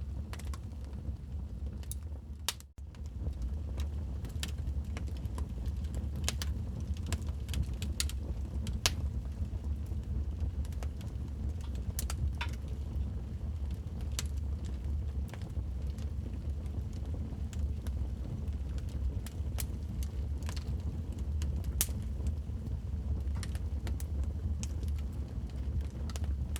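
Wood fire crackling in a fireplace: irregular sharp pops and snaps over a steady low rumble. There is a brief dropout about two and a half seconds in.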